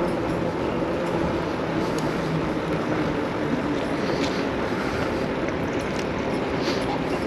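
Steady wind rush and tyre noise from an electric bike cruising at about 12 miles an hour on low pedal assist, with a faint hum underneath.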